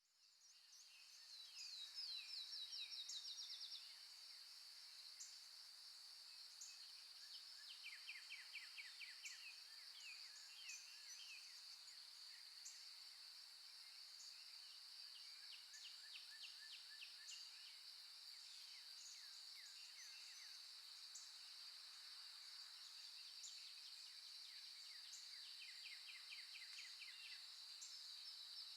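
Faint nature-sound recording of wild birds chirping and giving rapid trills over a steady high-pitched hum. It fades in over the first couple of seconds.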